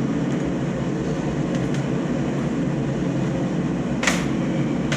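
Steady rushing hum of a running shop heater, with one sharp knock about four seconds in as items are moved on the workbench.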